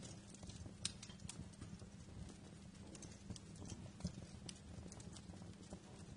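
Wood fire in a fireplace crackling: irregular sharp pops and snaps, the loudest just under a second in, over a low steady rumble of burning.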